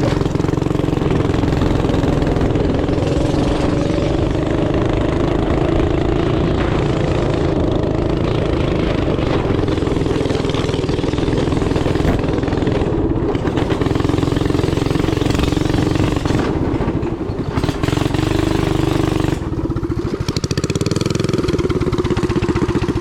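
Small gas engine of a go-kart or mini bike running loud and close under throttle, its pitch wavering. Near the end it drops off briefly and then revs back up.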